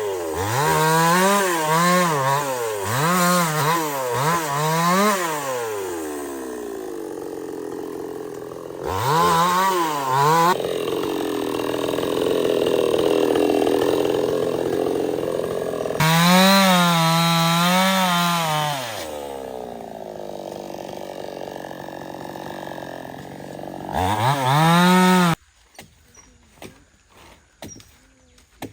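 Stihl 070 two-stroke chainsaw revved in a string of quick blips, then running lower and rougher as it bites into the teak, revved up several more times between cuts. It shuts off abruptly near the end.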